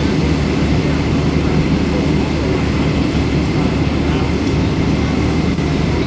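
Steady low rumble of a running vehicle engine, with noise over the top.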